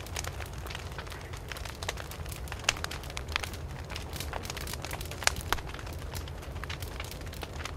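Wood fire burning and crackling, with irregular sharp pops over a steady low rumble of flames; a few louder pops stand out.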